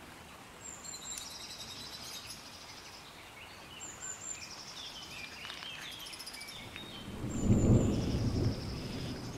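Bird chirps and trills come in short high phrases, and a low rumble starts about seven seconds in and is the loudest sound.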